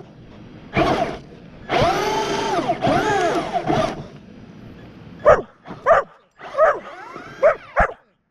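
Electric motor of a Traxxas Slash RC truck whining as it revs up and down, with a drill-like sound. A dog barks about five times in the second half.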